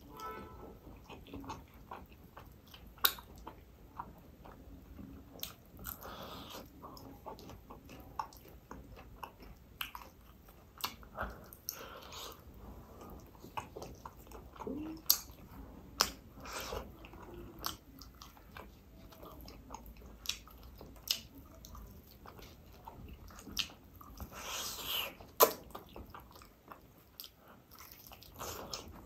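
Close-miked eating sounds of a man chewing and biting roast chicken: wet chewing and mouth smacks with many sharp clicks, and the loudest snap about 25 seconds in.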